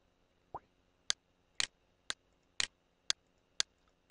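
Computer mouse button clicking, short sharp clicks at an even pace of about two a second.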